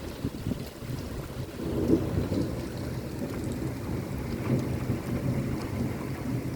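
Rain pattering on a window pane and sill, with a low rumble of thunder that swells about two seconds in and rolls on.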